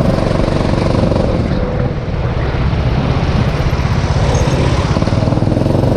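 Rental go-kart's small engine running, mixed with a steady rushing noise.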